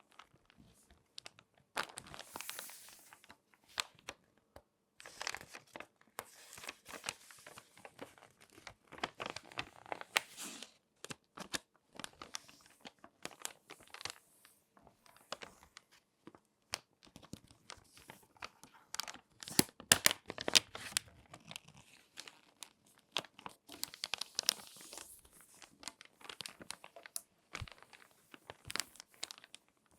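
Crinkly glossy magazine pages being folded and handled: irregular sharp crackles and short rustles, with a louder flurry of crinkling about two-thirds of the way through.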